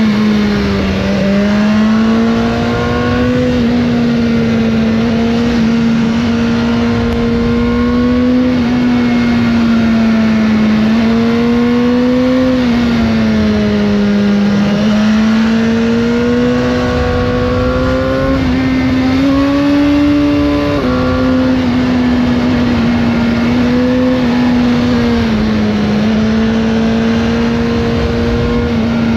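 BMW S1000R inline-four engine on its stock exhaust, heard while riding, holding a steady mid-range note that rises and falls gently with the throttle; the pitch dips a few times and steps down suddenly about two-thirds of the way through, as with a gear change.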